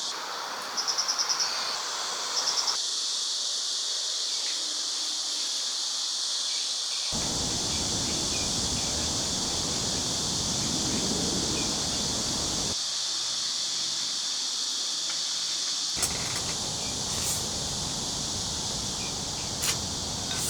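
A steady, high-pitched chorus of insects trilling, with a short rapid pulsing call about a second in and again after two and a half seconds. A low rushing noise sets in abruptly about seven seconds in, drops out for a few seconds, then returns.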